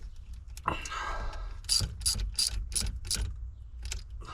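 Socket wrench ratchet clicking in a run of short, evenly spaced strokes, about three a second, as a nut or bolt is run down; a rough scrape comes first and two more strokes follow near the end.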